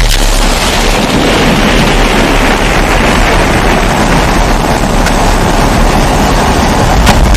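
Kerosene pressure stove (babour) burning with a steady, even hum and a low rumble underneath, overlaid with a winter wind ambience. A couple of faint clicks sound near the end.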